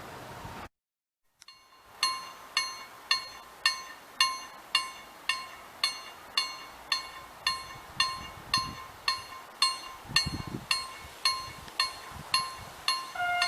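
Railroad crossing warning bell (KLD-4013) ringing steadily at about two bright metallic strikes a second, each strike ringing on briefly; this signals that the crossing is active for an approaching train. The ringing starts about two seconds in, after a brief dead gap, and a short steady tone sounds over it near the end.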